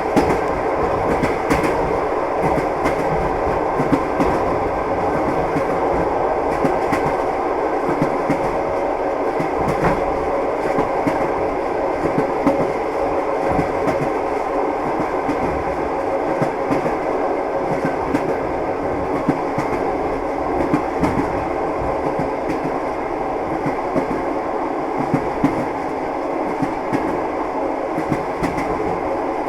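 Train running along the track: a steady running noise with the clatter of its wheels over the rails, dotted with frequent irregular clicks.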